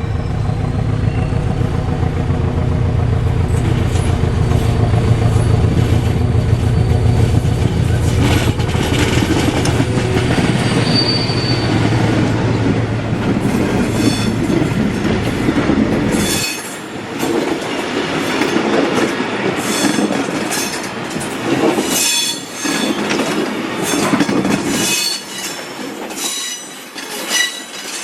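SM42 diesel shunting locomotive's engine running loud and steady as it hauls the train past. About sixteen seconds in, the engine drone drops away, leaving the coaches' wheels clattering over rail joints in irregular clicks, with high-pitched flange squeal.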